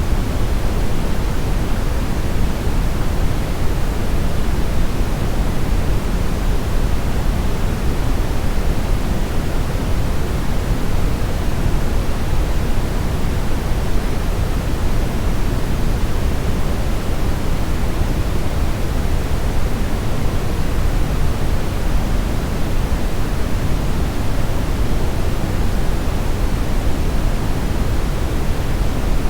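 Steady brown noise: an even, unchanging rush of noise weighted heavily toward the deep end, with little in the highs.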